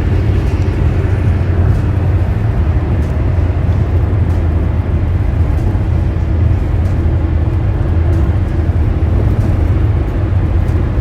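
Car driving on a highway, heard from inside the cabin: a steady, loud engine-and-road rumble with a hiss of tyre and wind noise and faint scattered ticks.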